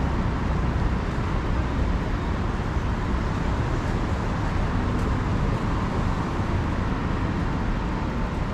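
Steady city street traffic noise: a continuous mix of road vehicles running, with no single event standing out.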